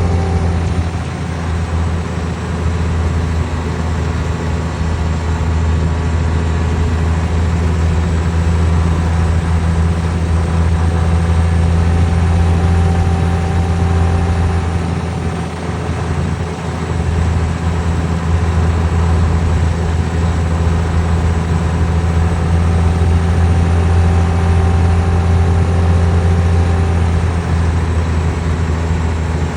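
Boeing 777-300ER's GE90 turbofan engines running with a loud, steady low rumble and a high whine that rises and falls slightly twice.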